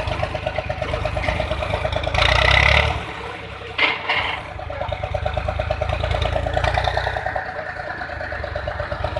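Tractor diesel engine running with an even chugging beat. It surges louder for under a second about two seconds in, drops away briefly with a sharp knock near four seconds, then settles back into its steady chug.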